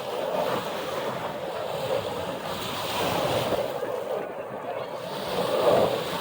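Surf washing on the beach with wind buffeting the microphone, a steady rushing noise that swells a little about three seconds in and again near the end.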